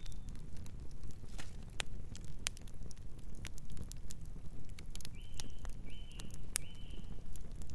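Wood fire crackling: a low steady rumble of burning with sharp pops and snaps throughout. About five seconds in, a distant bird gives three short high calls in quick succession.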